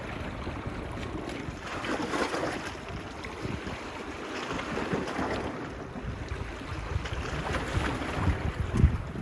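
Small waves washing onto the beach, swelling about every three seconds, with wind buffeting the phone's microphone and a brief gust thump near the end.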